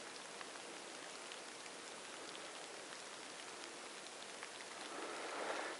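Light rain falling in the forest: a faint, steady hiss with scattered small drop ticks, growing a little louder near the end.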